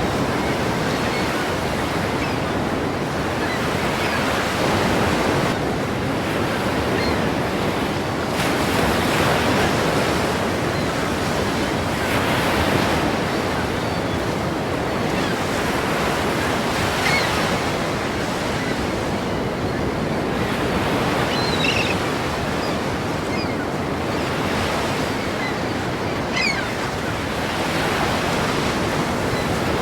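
Ocean waves crashing, a continuous surf noise that swells every four seconds or so as each wave breaks.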